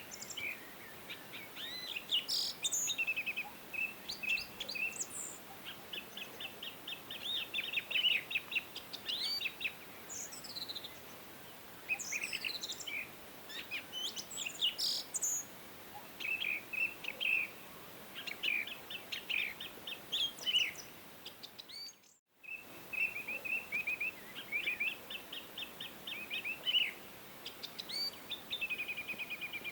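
Several songbirds singing and chirping over faint background hiss, with rapid trills and quick chirps overlapping throughout. The sound cuts out for a fraction of a second about two-thirds of the way through, then resumes.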